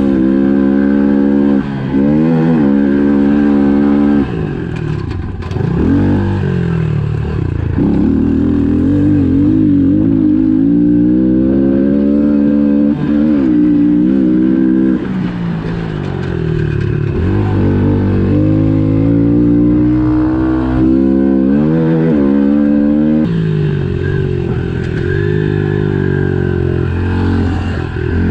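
Pit bike's small single-cylinder engine revving up and easing off again and again, its pitch climbing and dropping repeatedly as it is ridden.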